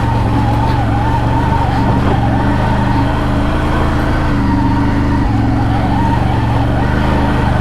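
ATV engine running steadily in high range through mud, its pitch rising and falling slightly with the throttle but kept at moderate revs.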